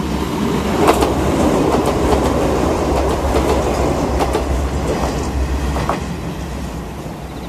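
Izuhakone Railway 7000 series electric train passing close by, its wheels clacking sharply over the rail joints a few times over a steady rumble and low hum. The noise builds to its loudest about a second in and fades away near the end.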